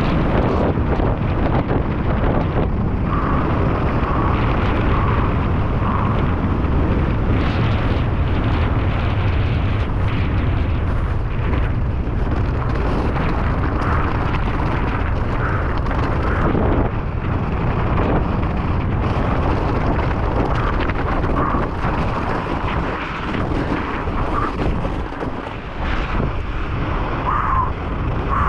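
Loud, continuous wind rush buffeting a rider-mounted camera's microphone as a mountain bike descends snow at speed, with tyres hissing over the snow.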